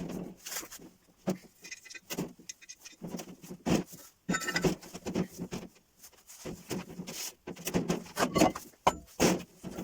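Irregular clinks, knocks and rattles of metal tools and parts being handled and set down, with a few short metallic rings.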